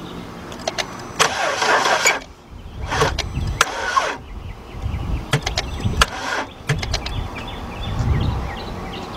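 Attempt to start a 2001 Saturn L300 that won't start: clicks and two short bursts of noise about one and three seconds in, more clicks a couple of seconds later, and the engine does not catch. The battery is too weak, so it needs a jump start.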